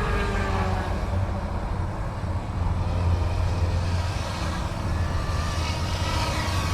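Electric YX Black Hawk UH-60 scale RC helicopter in flight: a steady rotor hum with a motor whine that drifts up and down in pitch.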